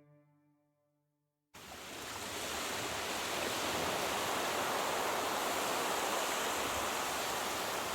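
Steady rush of running water, with no pitch, starting abruptly about a second and a half in after near silence.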